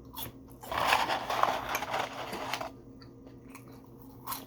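Close-up crunching and chewing of fried fast food, a crackly bite-and-chew burst lasting about two seconds, with a few softer clicks of chewing around it.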